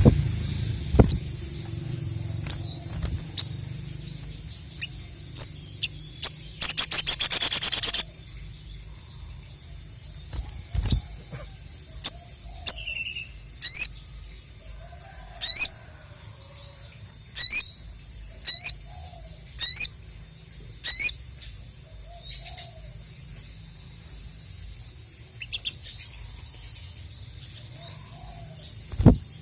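Sogon (sogok ontong) singing: sharp high chirps, a dense rattling trill about seven seconds in, then a run of about seven loud, steeply falling high calls in quick succession.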